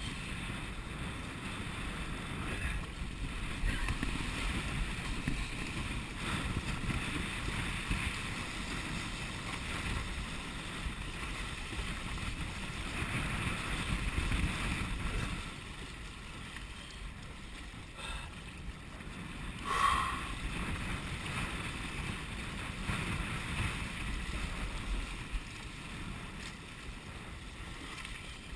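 Wind rumbling on the microphone and water rushing past a sailing kayak under way. The wind is stronger over the first half and eases about 15 seconds in, and there is a short higher-pitched sound about 20 seconds in.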